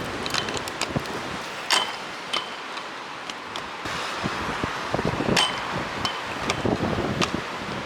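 A series of sharp, irregular clicks and metallic clinks, several with a short ringing ping, over steady wind noise.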